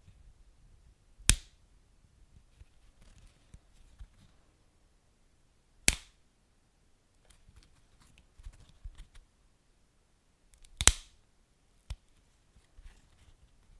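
Wood fire crackling softly, with three sharp loud pops about every four to five seconds among smaller ticks and snaps.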